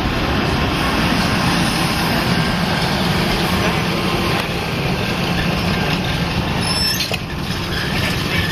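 Vintage passenger railcars of a long train rolling past close by: a steady rumble of steel wheels on the rails.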